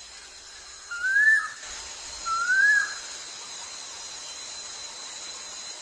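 A bird giving two clear whistled notes about a second apart, each sliding up and then dipping slightly, over a steady high hiss.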